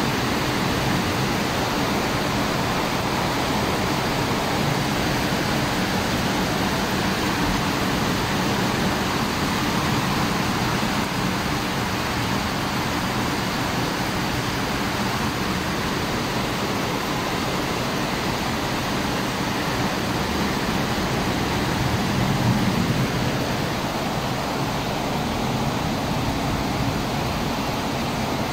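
Rain falling steadily: an even hiss that holds without letup.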